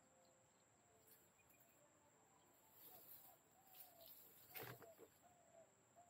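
Near silence: faint outdoor ambience with a few faint short bird calls, and a brief rustle about four and a half seconds in.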